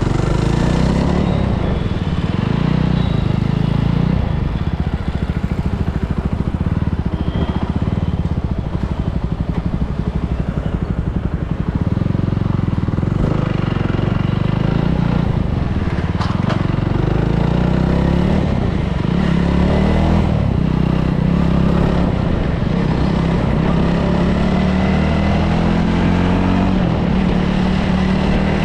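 Superbike engine running as it is ridden, its pitch rising and falling a little with the throttle.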